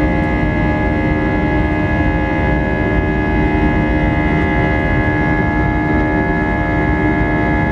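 Airbus A320's jet engines and airflow heard from inside the passenger cabin: a steady rumble with several steady whining tones above it.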